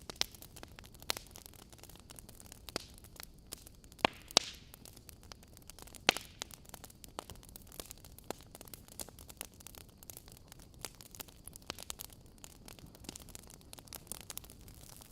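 Wood fire crackling in a fireplace: a steady low hiss with frequent sharp pops and snaps from the burning logs, the loudest pops about four and six seconds in.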